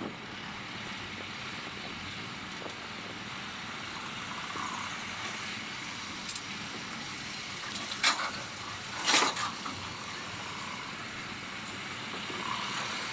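Steady road and traffic noise, with two short, loud noises about eight and nine seconds in.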